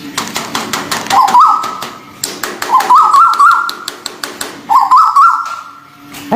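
Tuwu bird calls: a whistled phrase of a few quick wavering notes that climbs into a held steady tone, repeated three times about two seconds apart, with rapid sharp clicks throughout.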